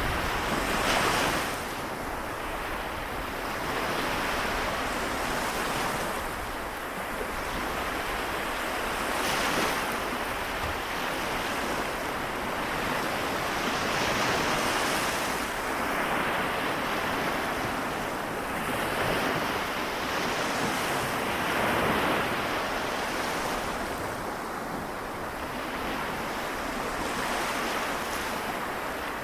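Small waves of the Seto Inland Sea washing onto the shore, each swelling and falling back every few seconds, with a little wind on the microphone.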